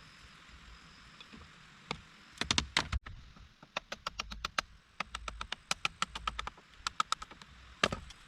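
Steady hiss of rain, with a quick irregular run of sharp knocks or cracks from about two seconds in, loudest near the start of the run and once more near the end.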